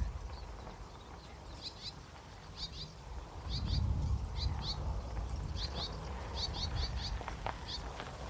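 Reed warbler singing: a chattering run of short, high notes, mostly in twos and threes, repeated unevenly. Wind rumbles on the microphone underneath, stronger a few seconds in.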